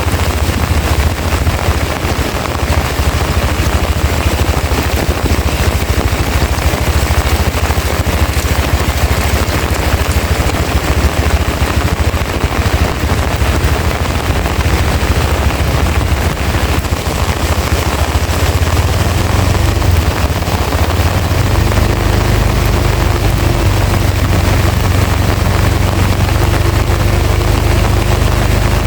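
Heavy rain pouring down with strong wind rumbling on the microphone, a dense, loud rush. A low steady hum comes in about two-thirds of the way through.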